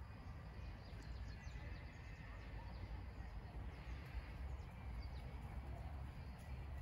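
Birds chirping in short, quick falling notes over a steady low rumble.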